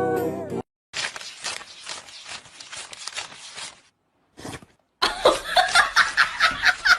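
A dog howling over music cuts off in the first second. Then a person laughs in breathy bursts, quietly at first and then in a louder run of quick peaks, about four a second, over the last two seconds.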